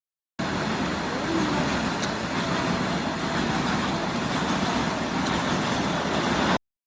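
Steady rumble of road traffic. The sound drops out to dead silence for a moment at the start and again near the end, at edit cuts.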